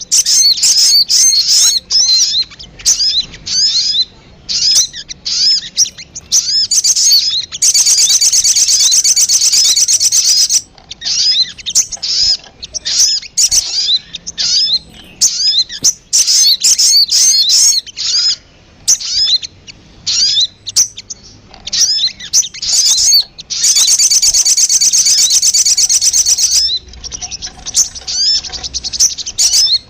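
Recorded lure calls of a sogon bird: quick, high chirps repeated in fast series, broken twice by a long, dense, unbroken trill lasting about three seconds.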